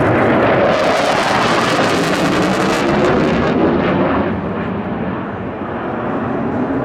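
Military fighter jet flying a display, its engines giving a loud roar with a strong tearing hiss for the first few seconds, easing slightly and then building again near the end.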